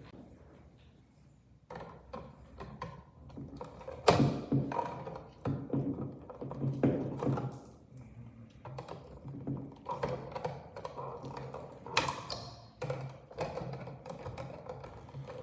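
Irregular taps, clicks and knocks of hands working parts and tools, two sharper knocks about four and twelve seconds in, over a low steady hum.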